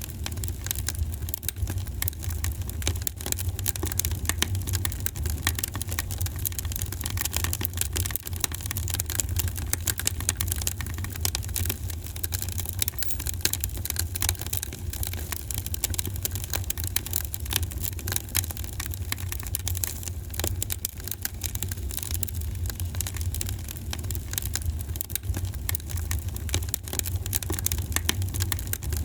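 Wood fire in a fireplace crackling, with many small pops and snaps over a steady low rumble of the flames.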